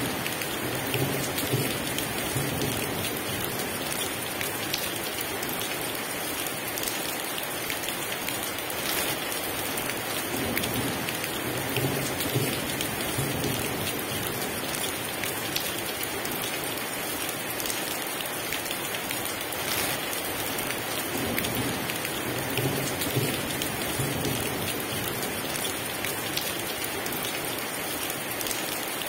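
Heavy rain falling steadily, with a low rumble of distant thunder coming three times, about ten seconds apart.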